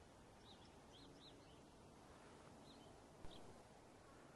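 Near silence: a few faint, short high bird chirps over a low steady hiss, with one soft knock about three seconds in.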